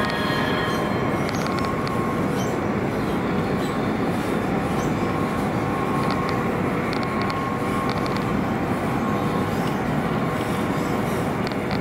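Steady running noise inside a CRH high-speed train's passenger car at speed: an even rumble of wheels on rails, with a few faint light ticks now and then.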